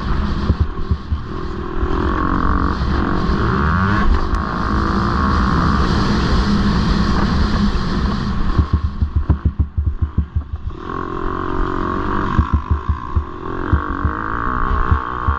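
Motocross bike engine racing on the track, revving up and down through the gears. About halfway through the throttle is chopped and the engine pops and pulses before pulling hard again.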